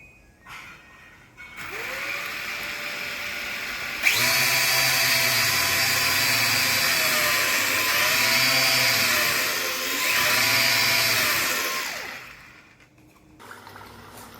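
Small battery-powered electric motor of an RC boat running under throttle: a whine that rises in pitch as it spins up, gets much louder about four seconds in, sags and climbs back twice as the throttle is eased and reopened, then winds down and stops near the end.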